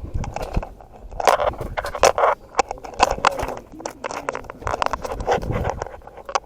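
Tools and equipment being handled: irregular metallic clicks, clanks and scraping sounds with no steady rhythm.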